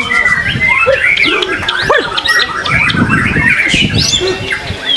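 Several white-rumped shamas (murai batu) singing at once: a dense tangle of quick whistles, rising and falling phrases and harsh notes.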